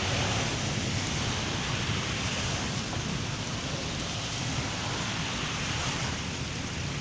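Heavy rain pouring down in a steady, even rush, with wind rumbling on the microphone.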